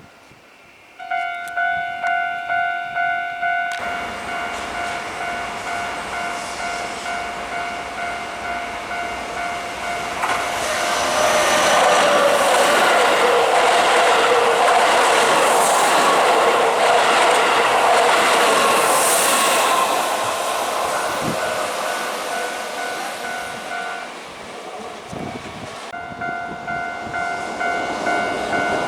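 Japanese level-crossing warning bells ringing at about two strikes a second, then a Keihan Main Line electric train running over the crossing from about four seconds in. Its wheels and motors build to a loud pass and ease off after about twenty seconds, while the bells keep ringing.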